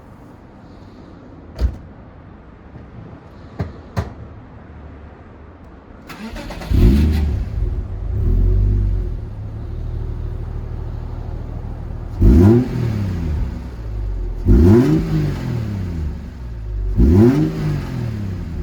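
A few clicks, then the Subaru Legacy 3.0R's flat-six engine starts about six seconds in and settles to idle. It is then blipped several times, each rev rising and falling quickly, through an aftermarket exhaust with a Kakimoto mid-pipe and muffler.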